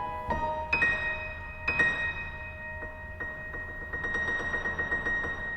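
Solo piano interlude: a few struck high notes ring on, then a run of quick repeated notes in the upper register.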